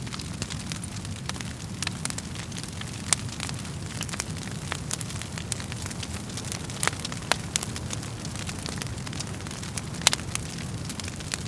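Wood fire crackling: irregular sharp pops and snaps over a steady low rumble of flames, with a few louder pops about three seconds in and near the end.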